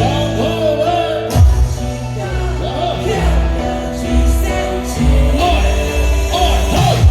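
Live band music with a singing voice over a steady bass beat, amplified through a concert PA.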